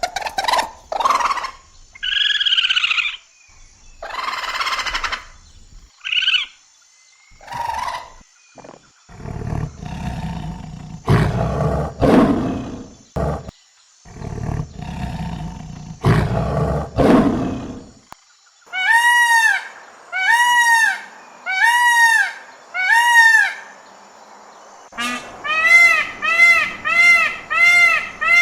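A string of different wild animal calls: a few short calls first, then a run of deep roars, then a series of five high, arched calls and a faster series of similar calls near the end.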